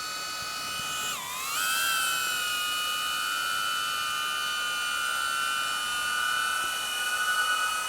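DJI Avata FPV drone's propellers whining steadily as it flies itself home on low-battery return-to-home autopilot. The pitch dips and recovers about a second in, then holds steady.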